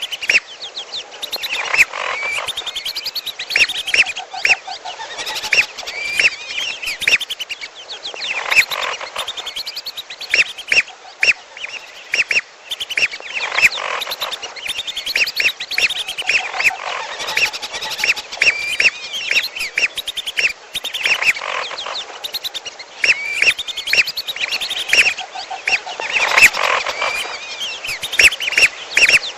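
A mixed bird-lure chorus of belibis merah whistling ducks and piolo birds, calling without pause. Quick repeated high whistled and chirping calls crowd over one another, and a lower, rapid trill comes in several times.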